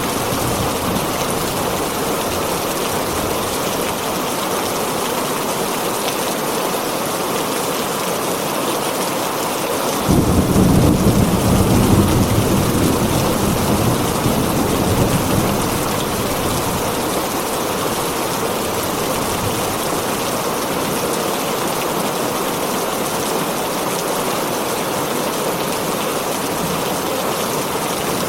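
Heavy rain drumming steadily on a tin roof. About a third of the way in, a roll of thunder breaks in suddenly as a low rumble and fades over about five seconds.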